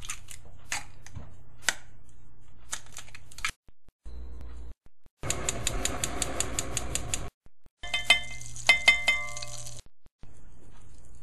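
Kitchen utensils working in a mixing bowl, in short clipped segments: a few sharp clinks, then a fast rhythmic scraping of about seven strokes a second like whisking, then metal taps that ring on after each hit.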